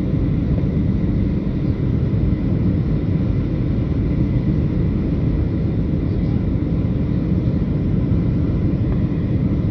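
Steady low roar of jet aircraft noise, unbroken throughout, with a faint high steady tone under it.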